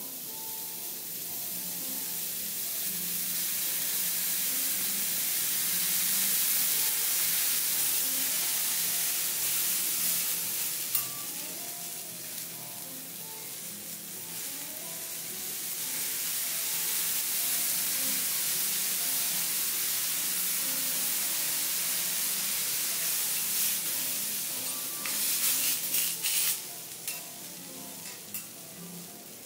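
Vegetable slices sizzling on a hot teppanyaki griddle, the hiss swelling and easing as a steel spatula presses them down. A few sharp metal clicks of the spatula on the griddle come near the end.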